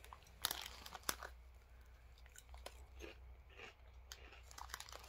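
A person chewing crunchy bugle-shaped corn snacks: a few crisp crunches about half a second to a second in, then fainter chewing.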